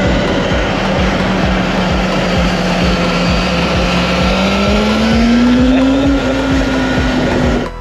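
Wind rushing over the camera microphone while riding a Talaria MX5 electric dirt bike at speed, with a steady whine that rises in pitch about four and a half seconds in as the bike speeds up.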